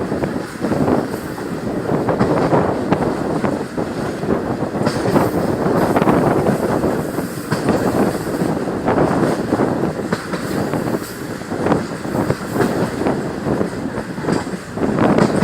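Indian Railways passenger train running along the track: a steady rumble with the wheels clattering over rail joints.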